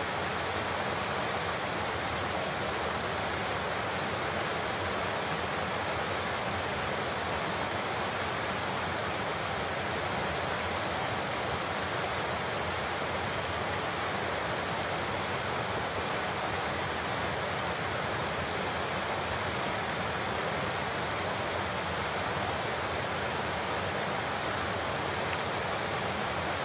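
Large waterfall with a steady, unbroken rush of falling water.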